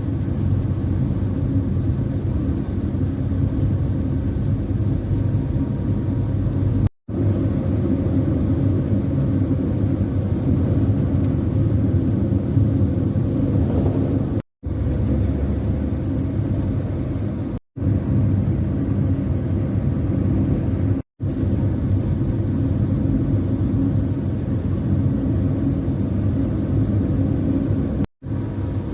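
Heavy truck running steadily at road speed: a continuous low engine drone and rumble. It is broken five times by very short gaps of silence where clips are joined.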